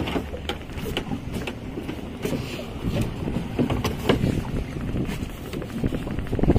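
Speedboat under way on its twin Yamaha 200 hp two-stroke outboards: steady motor noise mixed with wind on the microphone and irregular knocks.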